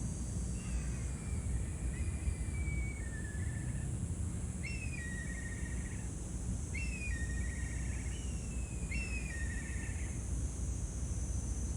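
A bird calling repeatedly: about six short, high calls, each sliding down in pitch and ending in a buzzy trill, spaced a second or two apart over a steady high hiss.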